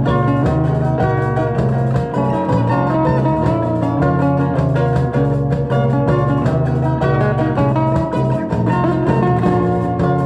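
Instrumental music led by plucked guitar, with many notes changing quickly over a moving low line.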